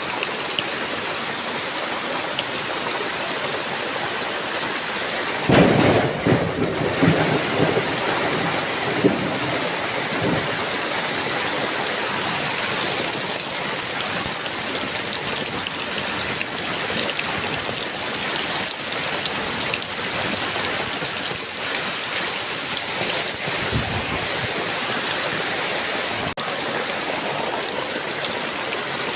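Heavy rain falling steadily in a thunderstorm. A thunderclap breaks about five and a half seconds in, crackling and rumbling for a few seconds before fading back into the rain, and a fainter low rumble of thunder comes near the end.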